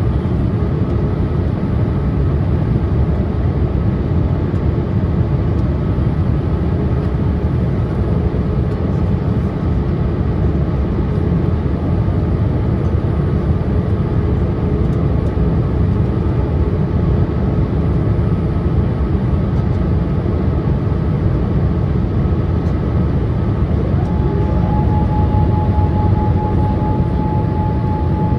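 Steady airliner cabin noise from inside a Boeing 787-8 on approach. A faint steady whine from the hydraulic system rises to a higher pitch near the end and holds there.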